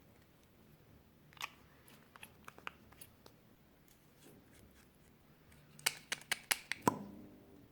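Eyeshadow makeup being handled and broken up, giving sharp clicks and crunches: a few scattered ones at first, then about five in quick succession near the end.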